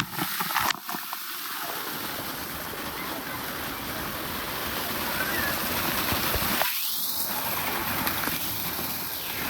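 Steady rush of splashing, falling water from water park play features and slides.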